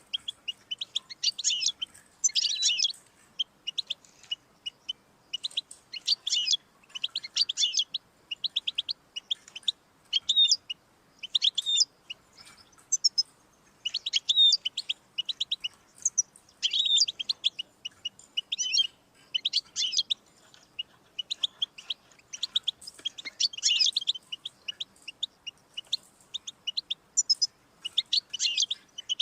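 European goldfinch singing: fast, high twittering phrases of quick trilled notes, each lasting a second or two, with short pauses between them and no letup.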